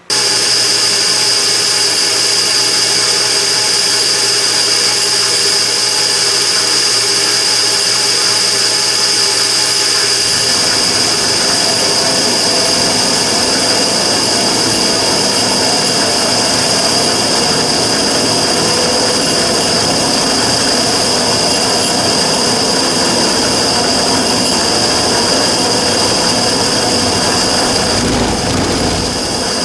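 Immersion tube burner running: a loud, steady rushing noise with a strong high whine that starts suddenly. About a third of the way in it turns rougher, with more low rumble, the abnormal noise the burner is being recorded for.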